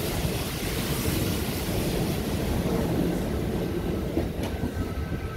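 Kintetsu electric train running past, a steady rumble of wheels on the rails that eases off a little near the end as the last car passes, with a short click partway through.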